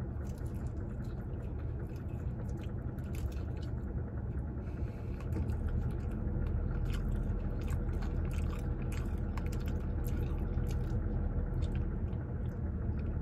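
A person chewing and biting into a breaded fried chicken strip close to the microphone, with scattered short crunches, over a steady low rumble.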